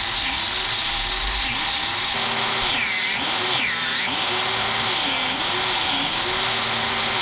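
Electric grinder running continuously, its motor pitch repeatedly sagging and recovering as the steel workpiece is pressed against it and eased off.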